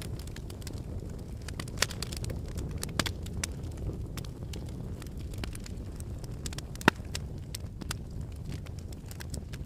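Wood fire burning in a fireplace: a steady low rumble of flames with scattered sharp crackles and pops from the logs, the loudest pop about seven seconds in.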